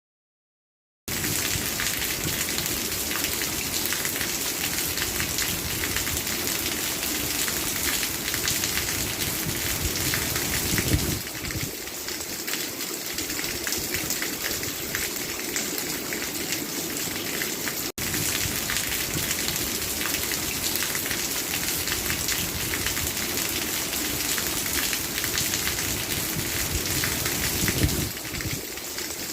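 Heavy rain falling steadily, a dense even hiss and patter of drops on a surface. It is silent for about the first second, and the sound cuts out for an instant about two-thirds of the way through.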